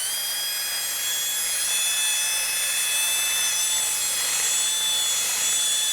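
Small electric power tool spinning up and then running at a steady high-pitched whine for about six seconds before it stops, grinding corrosion out of the hole in a corroded pressure-washer fitting.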